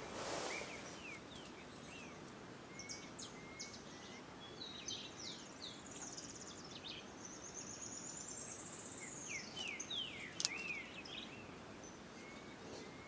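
Several wild birds chirping and whistling over a steady background hiss, with a long high trill in the middle. A single sharp click about ten seconds in is the loudest moment.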